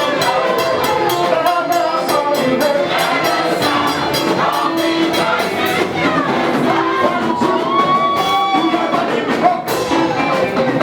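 Live gospel praise band playing, with singing over a steady percussion beat.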